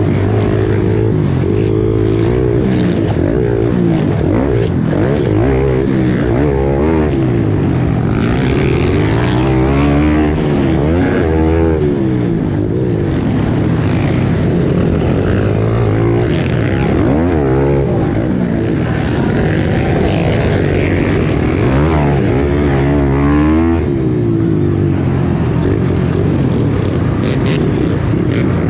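Several small pit bike engines revving up and down over and over, their pitches rising and falling across one another. A steadier, lower engine note runs underneath.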